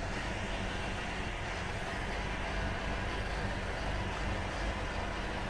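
Straight-six engine of a 1928 Rolls-Royce Twenty running at a steady low speed as the car rolls slowly forward.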